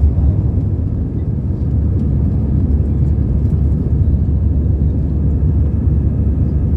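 Steady low rumble of a passenger jet's engines and rushing air, heard from inside the cabin during takeoff.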